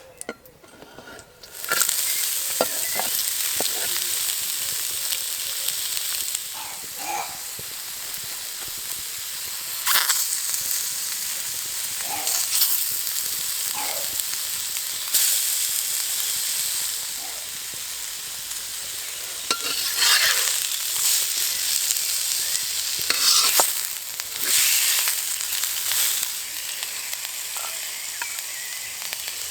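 Food frying in hot oil: a loud sizzle starts suddenly a couple of seconds in, as food goes into the oil, and keeps on with a few clicks and knocks from a utensil.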